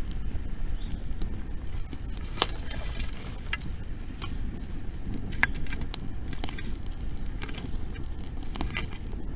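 Wood bonfire crackling, with irregular sharp pops, the loudest about two and a half seconds in and again about five and a half seconds in.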